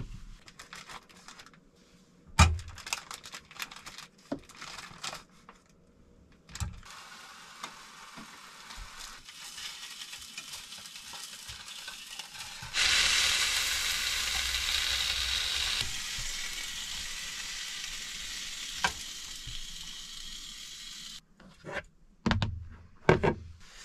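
Hot dogs frying in a pan on a gas hob: a few knocks of pan and utensils, then sizzling that turns much louder about halfway and cuts off suddenly. A couple of knocks near the end as a plate is set down.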